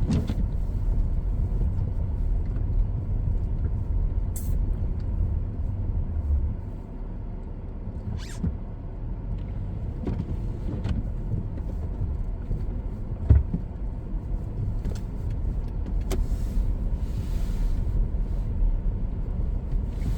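Car driving, heard from inside the cabin: a steady low road and engine rumble, with a few light clicks and one sharper thump about thirteen seconds in.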